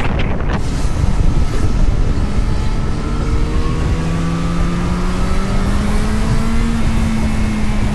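Vehicle engine running under way amid wind and road noise. A few short knocks come at the start, then the engine note rises gradually as it accelerates and levels off near the end.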